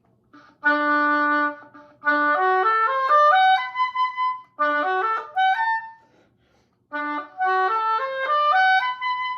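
An oboe plays a short held low note, then a quick stepwise run climbing to a high B. The passage is played three times with brief pauses between, as technique practice.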